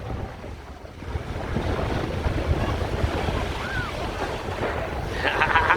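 Wind buffeting the microphone over the wash of beach surf, with a brief voice near the end.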